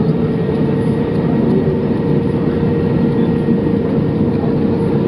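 Jet airliner engines running steadily: a constant rumble with a steady whine held at one pitch.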